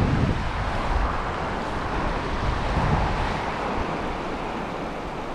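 Gusty wind buffeting the microphone, a heavy low rumble that eases about half a second in, over a steady rushing hiss.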